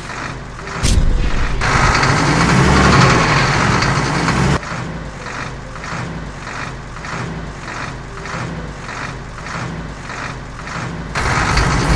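Cartoon truck sound effects, a mechanical engine-and-machinery noise, over background music with a steady beat. The machine noise swells loud about a second in, drops back after a few seconds, and swells again near the end.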